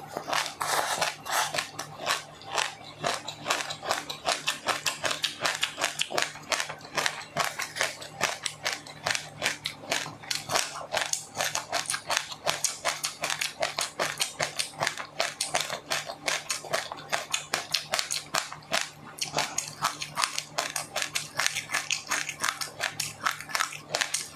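Close-miked chewing of crunchy food, a continuous run of rapid, irregular crackling crunches, with a faint steady hum underneath.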